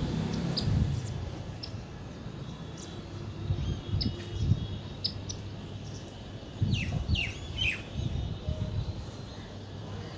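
Small birds chirping: scattered short high chirps, then a quick run of falling chirps about seven seconds in, over a low uneven rumble.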